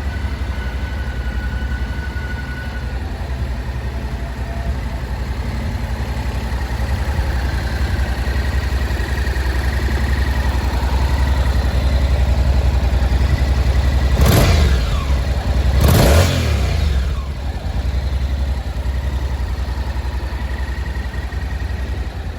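Honda CTX700 DCT's parallel-twin engine idling steadily, with two quick throttle blips about two-thirds of the way through, each rising sharply and falling back to idle.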